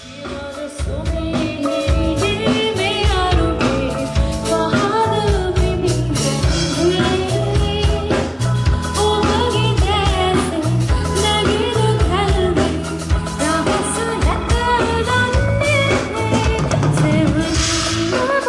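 Live band music: a woman singing over drums and bass, fading in at the start.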